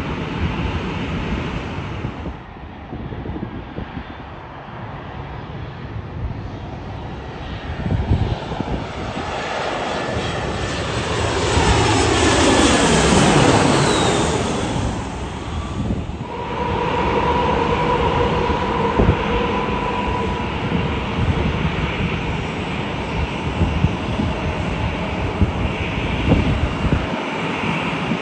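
Jet airliner passing close by, its engine noise swelling to a peak about halfway through while its whine slides downward in pitch as it goes past, then fading to a steadier distant hum.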